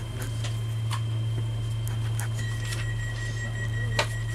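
Steady low hum of a Southeastern commuter train running, with a few sharp clicks. A thin, steady high whine joins a little over halfway through.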